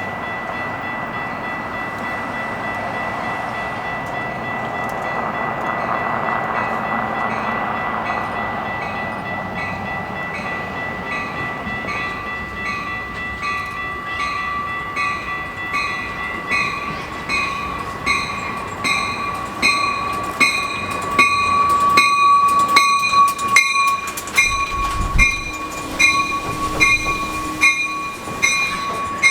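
Train approaching and passing, its rumble building and then its wheels clicking steadily over rail joints from about halfway on, louder near the end. A steady high tone sounds throughout.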